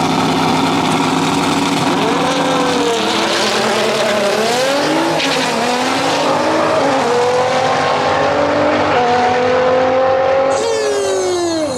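Turbocharged LS V8 drag cars at full throttle down the strip. The engine note climbs and drops back at each gear shift, then winds down near the end as they lift off.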